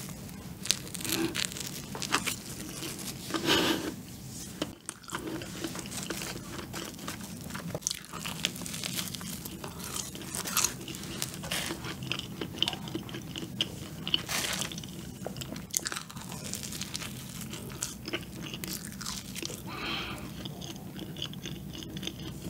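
A person bites into a sugar-coated donut filled with matcha cream and chews it close to the microphone: steady chewing with many small, sharp crackles and mouth clicks.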